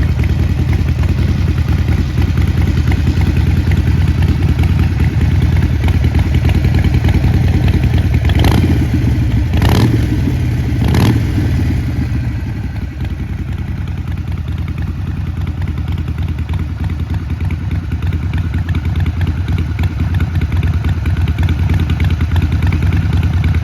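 Harley-Davidson Sportster 48's air-cooled 1200 V-twin running through Vance & Hines Shortshots exhaust with quiet baffles, idling steadily. Three quick throttle blips come about halfway through.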